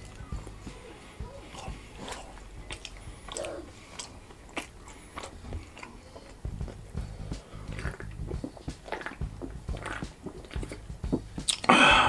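Close-miked chewing and biting of pizza: many short mouth clicks and chewing noises, with one louder sound just before the end.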